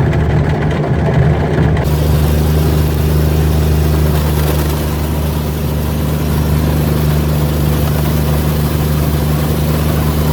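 Buick Century's engine running at a steady speed, with a rushing hiss that joins about two seconds in.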